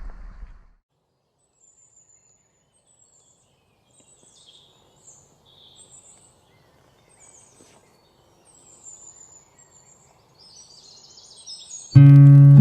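Birds chirping faintly in short, high calls over a quiet background, after a noisy rush cuts off in the first second. Loud music starts near the end.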